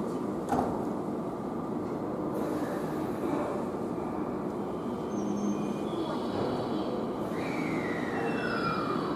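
Electric train running, with a steady rumble and a couple of clicks. Near the end a whine falls steadily in pitch, typical of the traction motors as the train slows.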